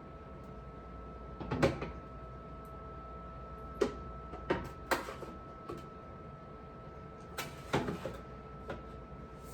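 Irregular knocks and clatters of things being handled, set down or shut, in a scattered run of about eight hits, over a steady faint hum.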